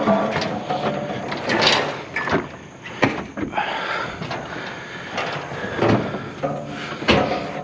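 Treadmill being shoved and shifted on a metal trailer: repeated knocks and clatter with scraping and short squeaks.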